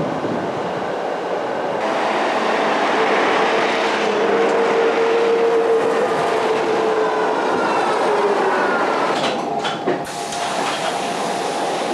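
A rail vehicle running, with steady rolling noise and a held whine from about three to seven seconds in. Fainter whines fall in pitch near the end.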